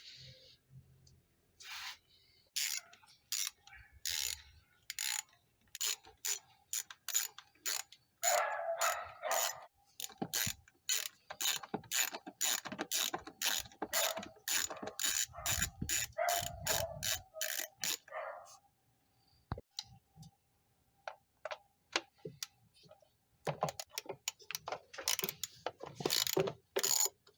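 Hand socket ratchet clicking in long runs of quick, even strokes while working a bolt on the Honda CR-V during the oil change. The clicking pauses for a few seconds past the middle, then starts again.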